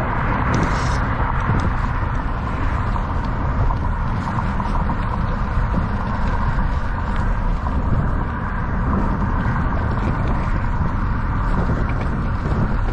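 Steady wind buffeting the microphone while riding a bicycle at speed, with a continuous rushing noise.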